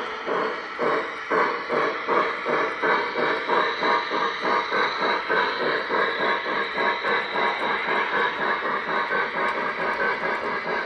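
Lionel Legacy Lehigh & Hudson River 2-8-2 steam locomotive model's sound system chuffing as the O-gauge train pulls away. The chuffs quicken over the first few seconds to about four or five a second, then keep an even beat.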